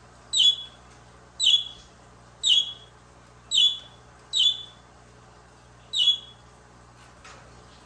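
Pet budgerigar giving a short, sharp call again and again, about once a second, six times in all, each call the same quick downward chirp.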